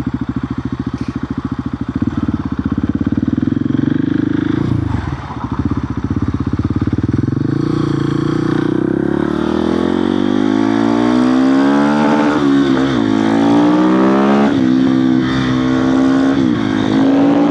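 KTM 690 SMC R supermoto's single-cylinder engine thudding at low revs, then pulling hard with its pitch climbing through the gears and dropping sharply at each upshift, three or four times.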